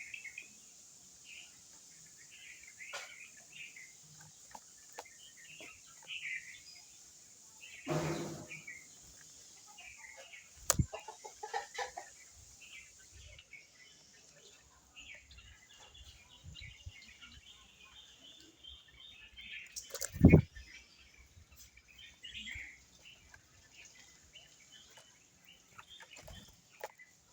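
Birds calling: short chirps repeating throughout, with a lower, louder call about eight seconds in. A few sharp knocks cut through, the loudest about twenty seconds in.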